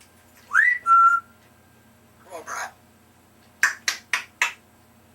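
African grey parrot whistling: a note that slides up, then a steady lower note, about a second in. It follows with a short falling call and then four quick sharp clicks near the end.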